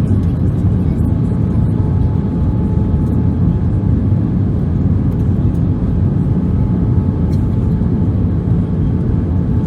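Cabin noise inside an Airbus A319: a steady low rumble from the engines and the air around the airliner, with a faint steady tone above it.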